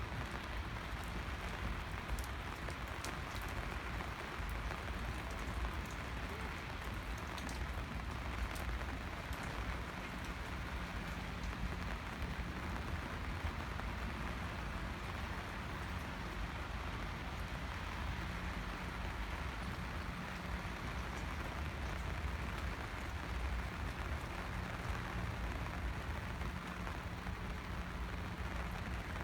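Steady rain falling, with scattered drop ticks heard mostly in the first half and a low rumble underneath.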